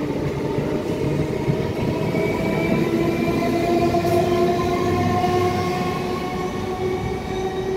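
Electric multiple-unit suburban train pulling out of the station past the platform: a steady rumble of wheels on rails with a motor whine that rises slowly in pitch as the train gathers speed.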